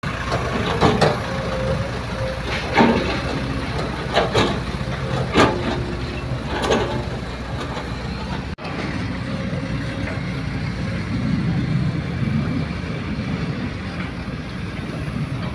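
Heavy diesel earthmoving machinery (an excavator working with a dump truck) running steadily, with several sharp metal clanks in the first seven seconds. The sound breaks off for an instant about halfway through.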